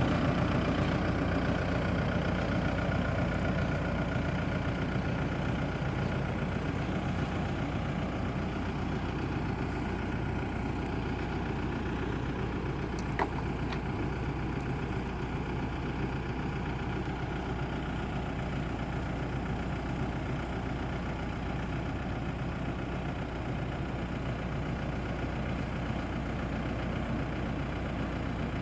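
BCS Volcan K105 compact tractor engine running steadily, getting a little quieter over the first ten seconds. There is one sharp click about thirteen seconds in.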